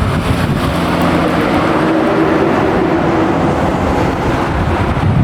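Car engine running at a steady pitch, loud and continuous.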